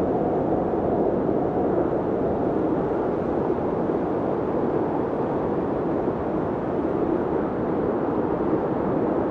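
Snowstorm wind blowing steadily, a low rushing noise that eases slightly about six seconds in before picking up again.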